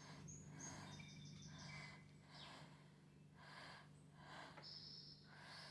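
Faint bird chirps and trills playing from a television, over a steady low hum.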